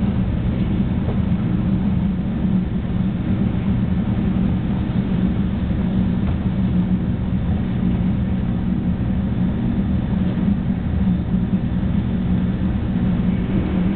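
Steady running noise inside the cabin of a 300 series Shinkansen train: a low rumble with a steady hum, unchanging throughout.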